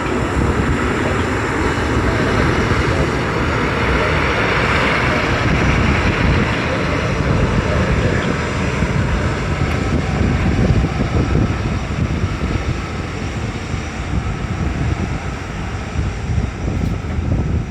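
Boeing 777-300 jet engines, a loud steady rumble that swells a few seconds in, with wind noise on the microphone.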